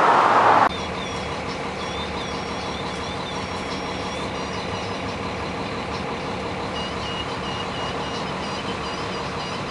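A vehicle engine running steadily, a constant low drone with faint short high-pitched tones above it.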